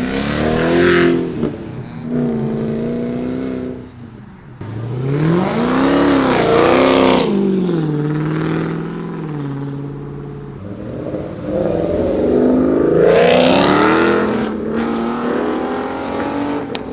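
Car engines revving and accelerating as cars pull away, in three swells of rising then falling engine pitch, with a steady engine note between the second and third.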